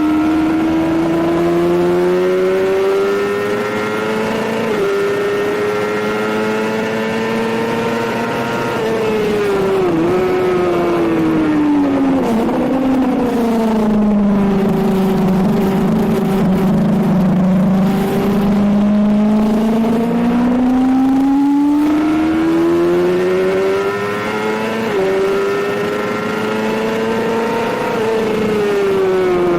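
Suzuki GSX-R750 K7 inline-four under a rider on a race track, with wind rush. The revs climb through the gears with an upshift about five seconds in. They then fall under braking with quick downshift blips, hold low through a slow corner, and climb again with another upshift before dropping off near the end.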